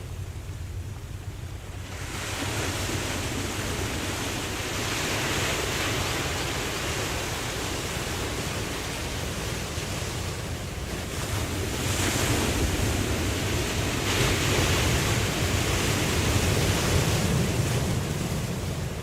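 Ocean surf washing in and out: rushing waves that swell about two seconds in and again around twelve seconds, over a steady low rumble of the sea.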